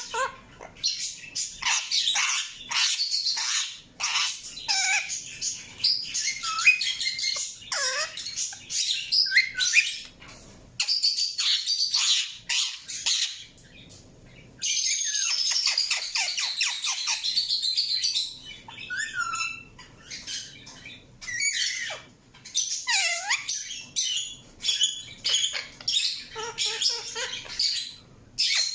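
Indian ringneck parakeet calling: runs of short, high-pitched chirps and squawks broken by brief pauses, with a longer buzzy chatter of about three seconds partway through and a few falling whistled notes.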